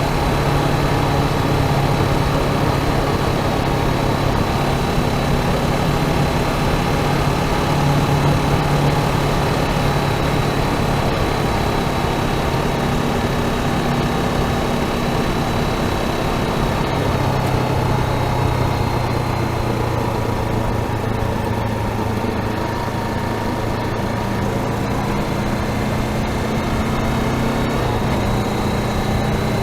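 Honda CBR500R's parallel-twin engine running steadily under a rush of wind and road noise. Its pitch drops a little about halfway through and rises again near the end.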